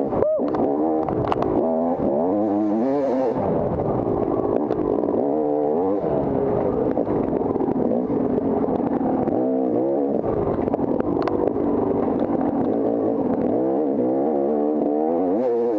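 Off-road motorcycle engine revving hard and easing off again and again, its pitch rising and falling with each burst of throttle, with a few sharp knocks along the way.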